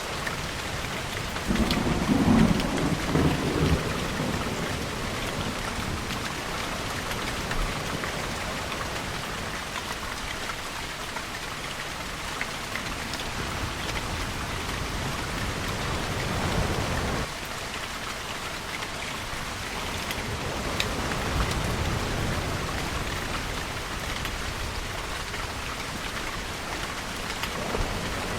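Steady rainfall with a rumble of thunder about two seconds in, the loudest part, and softer low rumbles later on.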